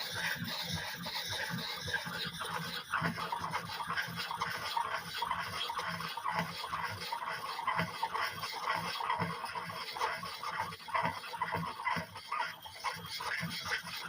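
Steel hatchet bit scraped back and forth in many short, quick strokes against the fine side of an oiled sharpening puck, a continuous gritty rasping as metal is ground off the edge.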